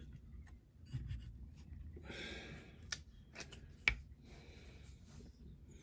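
Small parts of a diecast model car being handled and fitted by hand: short scratchy rubbing and a few sharp small clicks, the loudest about four seconds in.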